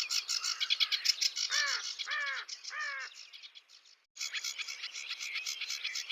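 Birds chirping rapidly and continuously, with three short arching calls about two seconds in. The sound drops out briefly about four seconds in, then the chirping resumes.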